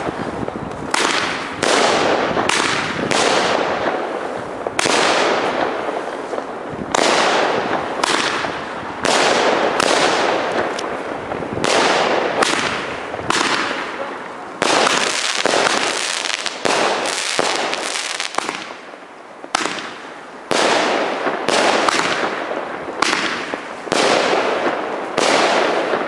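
Fireworks going off in quick succession: a sharp bang every one to two seconds, each trailing off in a crackling, fading hiss, with a few close together near the middle.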